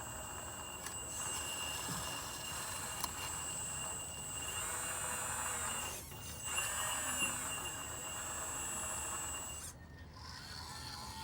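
Electric hydraulic pump and valves of a 1:14-scale RC excavator whining steadily in a high tone, the sound shifting as the controls are worked. It drops out briefly about six seconds in, and the high whine stops shortly before the end.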